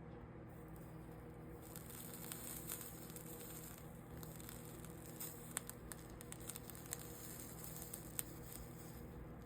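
Faint crackling and small ticks of flux and solder sizzling under a soldering iron on copper-foiled stained glass, starting about two seconds in. A steady electrical hum runs beneath.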